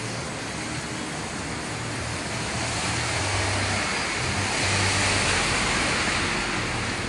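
Ferrari F430's V8 engine idling with a steady exhaust hiss that swells for a few seconds in the middle, heard close to the tailpipes.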